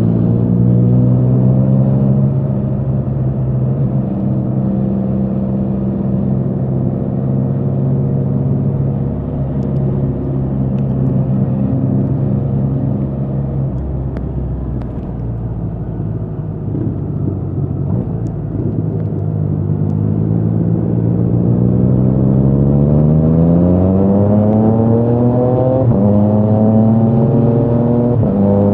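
2022 Triumph Trident 660's inline three-cylinder engine through a Spark exhaust, under way: running at a steady pitch, easing off with the pitch dropping about halfway through, then a long rising pull through the revs with a sudden upshift near the end before climbing again.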